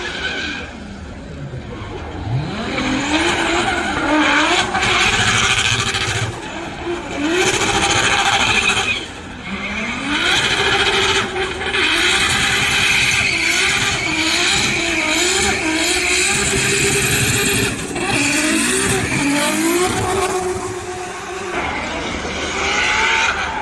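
Drift cars sliding: engines revved hard, climbing sharply a couple of seconds in and then held high with repeated rev rises and drops, over loud tyre squeal and screech.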